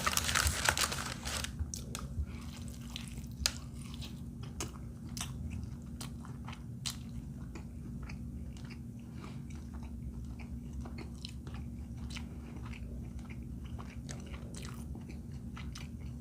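A person chewing a mouthful of food, with scattered small crunchy clicks, over a low steady hum. A short crinkling rustle sounds in the first second or so.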